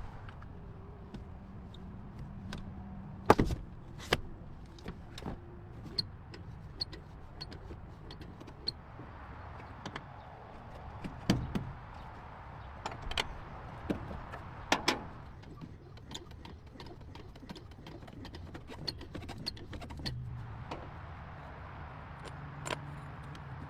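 Scattered sharp clicks and knocks, the loudest about three, eleven and fifteen seconds in, over a faint low hum.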